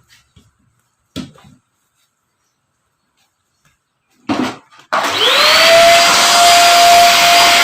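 A couple of short knocks, then a Pensonic vacuum cleaner is switched on about five seconds in: its motor spins up with a rising whine that levels off, then runs loud and steady.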